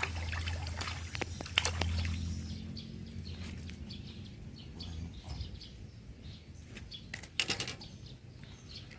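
Birds chirping, with low wind rumble on the microphone over the first couple of seconds and two brief bursts of clicking knocks, one early and one near the end.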